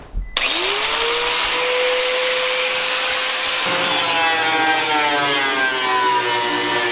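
A power grinder switches on about half a second in, its motor whine rising as it spins up, then runs loud and steady with a harsh grinding hiss. From about halfway the pitch slowly sags as the disc is pressed into the work.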